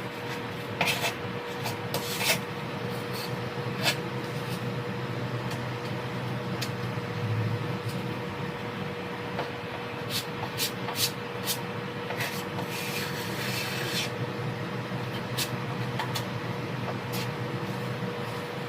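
Hand scraping and rubbing on a wooden cabinet surface, with scattered clicks and a longer scraping stretch about three-quarters of the way through, over a steady faint hum.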